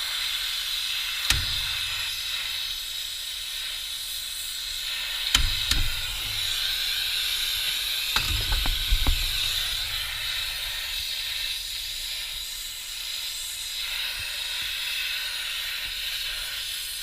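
Torch flame hissing steadily while a copper refrigerant-line joint on an air-conditioner compressor is heated to sweat it loose. A few sharp metallic knocks come about a second in, twice around five to six seconds in, and in a quick cluster around eight to nine seconds in.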